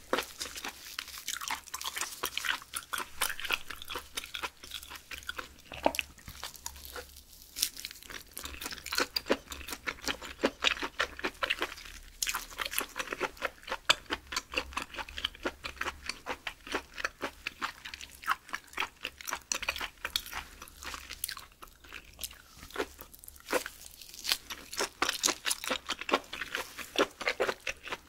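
Close-miked chewing of raw beef skirt (chimasal yukhoe) dipped in spicy sauce: a steady run of small mouth clicks and smacks.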